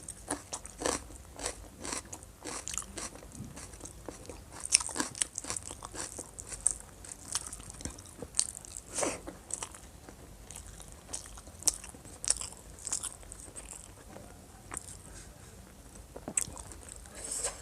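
Close-up eating sounds: irregular crunching bites and chewing of food, with many short crisp clicks scattered throughout.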